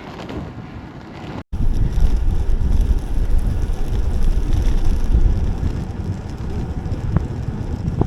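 Wind buffeting the microphone of a moving bicycle riding into a strong headwind, a heavy low rumble. It drops out for an instant about a second and a half in, then returns louder.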